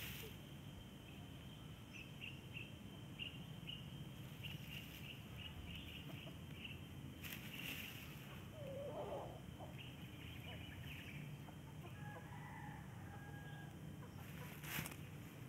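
Faint short bird calls, a scatter of chirps and one brief curved call near the middle, over a low outdoor hum, with two short rustles.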